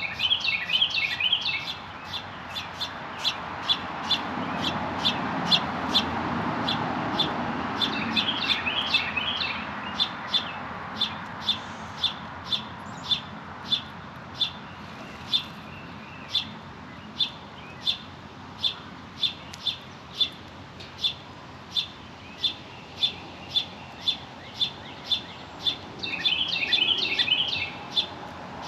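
Birds at a feeder: one bird gives a short, sharp call over and over, about one and a half times a second. Short bursts of quick twittering chatter come about a second in, about eight seconds in and near the end. A low rushing sound swells up and fades a few seconds in.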